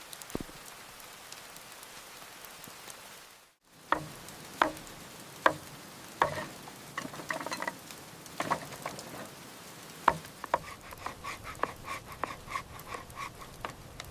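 Steady rain hiss, cut off briefly about three and a half seconds in. Then food sizzling as it cooks over a fire, with scattered sharp pops and crackles and a quicker run of regular clicks near the end.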